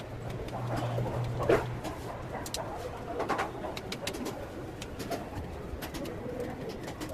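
Birds cooing, with scattered light clicks and a sharper knock about a second and a half in; a low hum is heard for the first two seconds.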